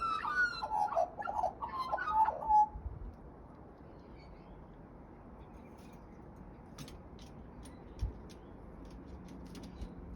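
A bird calling with a warbling, gliding song for about the first three seconds, then a string of light clicks and taps near the end.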